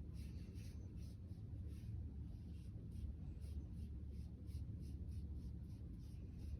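Sponge paintbrush stroking paint across paper, a soft scratchy stroke repeating a few times a second, over a low steady hum.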